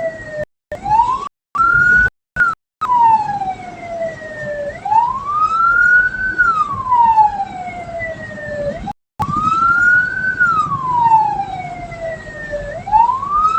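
Escort vehicle's siren wailing, its pitch rising and falling slowly about every four seconds over road noise. The sound cuts out briefly several times near the start and once about nine seconds in.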